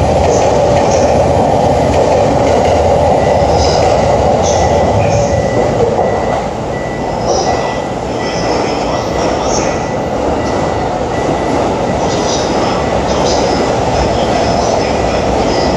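Electric commuter train running along a station platform: a loud, steady rail rumble with short high squeals from the wheels on the rails. The rumble eases a little about six seconds in.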